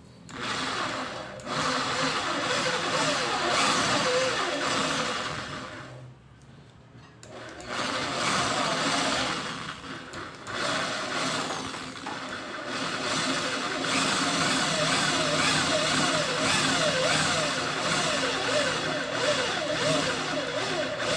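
Small electric motor of a mini drill press running with a 1.6 mm bit, its whine wavering in pitch as it drills; it stops for a moment about six seconds in, then runs on.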